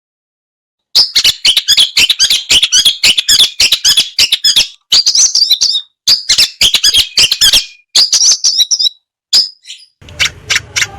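Long-tailed shrike (cendet) singing a rapid, harsh song of fast clicking chatter mixed with high, varied mimicked notes. It starts about a second in and comes in bursts broken by short pauses.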